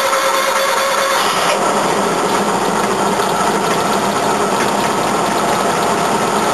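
Small engine of an old mini utility truck running steadily just after a cold start on choke, with a fast, even rhythm; its note changes slightly about a second and a half in. The carburetor is not set right.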